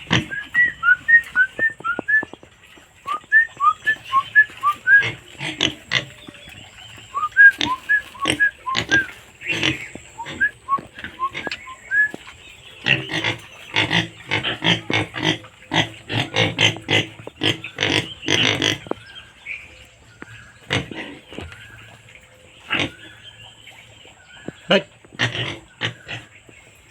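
Pigs grunting and squealing in short calls, thickest about halfway through. Over the first dozen seconds a run of short, high, rising chirps sounds alongside them.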